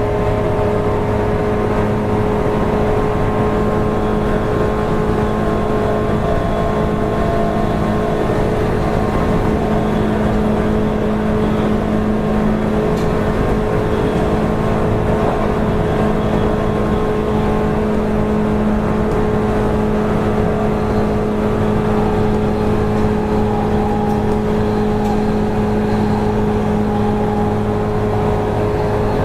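Running sound of a JR East 185 series electric train's motor car: the traction motors and gearing hum at a steady, unchanging pitch over the rumble of wheels on rail.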